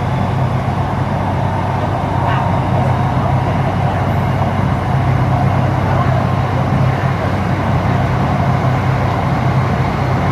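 Steady running noise inside an HCMC Metro Line 1 train car between stations: a constant low hum over an even rumble.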